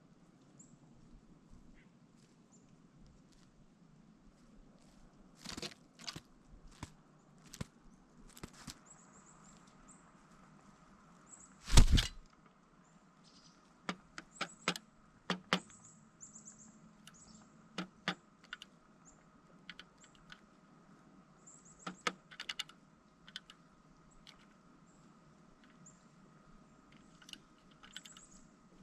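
Irregular taps and knocks of a pileated woodpecker working at a suet feeder close to the microphone, with one much louder knock about twelve seconds in.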